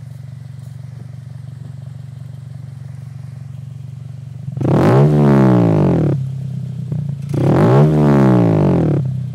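Acura RSX Type-S four-cylinder engine idling steadily through a Skunk2 exhaust and a race header with no catalytic converter. It is revved twice, about halfway through and again near the end, each rev rising and falling in pitch with a deep exhaust note.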